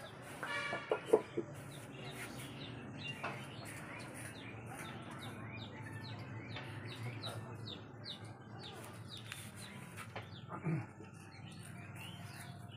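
Birds chirping over and over in short, quick, falling calls, with a few sharp knocks and a brief call about a second in.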